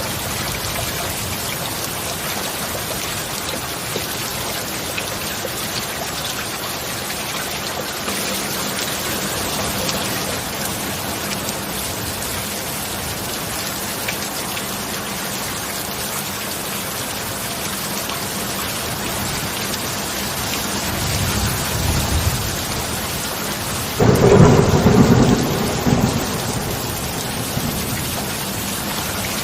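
Steady heavy rain, with thunder rumbling low about three-quarters of the way through, then a louder crack of thunder that rolls on for a few seconds before fading.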